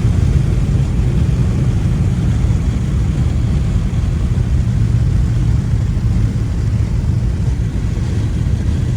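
2011 Volkswagen CC Sport's turbocharged engine, fitted with a new diverter valve, with the car under way: a steady low rumble of engine and road noise that eases slightly toward the end.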